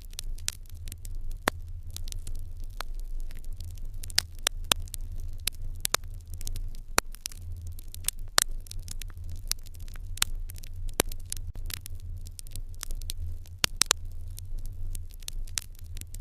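Wood fire crackling in a fireplace: irregular sharp pops and snaps, several a second with a few louder ones, over a low steady hum.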